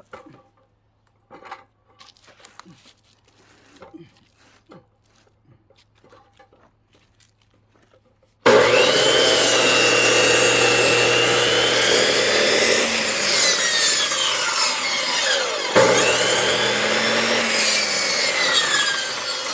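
A few faint clicks and knocks, then about eight seconds in a power saw starts cutting into a log: a loud, rough cutting noise with a whine that sags and slides in pitch as the blade bites the wood, broken off briefly near sixteen seconds and then cutting again.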